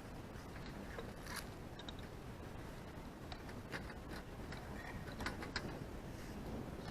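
Scattered light clicks and short scrapes, as of gear being handled, over a steady low rumble.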